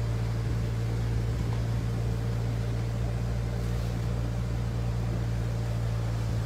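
Force Gurkha 4x4's diesel engine running with a steady low drone as it is driven slowly through floodwater.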